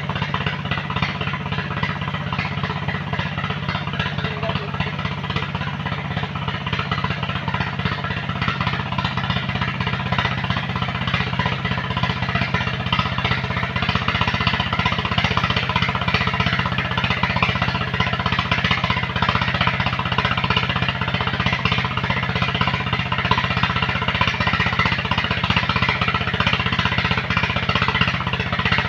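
A heavy machine's engine running steadily under load, with a fast knocking beat and a rattly top; it gets a little louder about halfway through.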